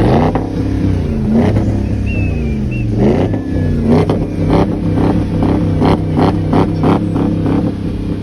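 Car engine being revved: a few sharp rev-ups and drops, then a quick run of short throttle blips.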